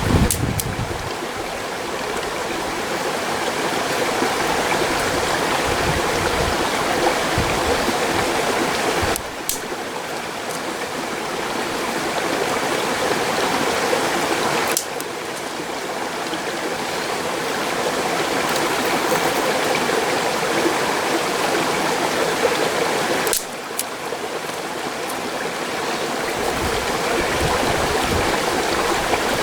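Mountain stream rushing steadily, an even wash of water noise; its level drops suddenly three times.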